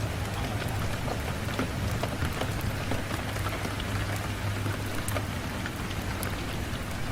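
Steady rain on a window, an even hiss with many scattered sharp drop ticks over a low steady rumble.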